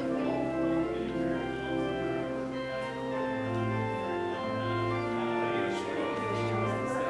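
Organ playing sustained chords, with long held low notes underneath.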